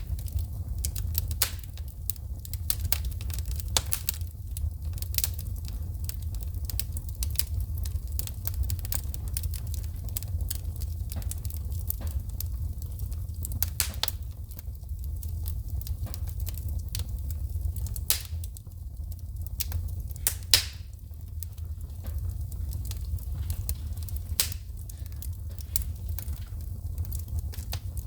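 Wood fire burning in a fireplace, crackling with irregular sharp pops of shooting sparks over a steady low rumble; one pop about two-thirds of the way through is louder than the rest.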